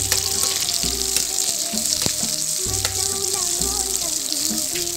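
Oil sizzling steadily as sliced onions, ginger, green chillies and bay leaves are stir-fried in a kadai, with a few clicks and scrapes of a steel ladle against the pan. Background music with a low beat plays underneath.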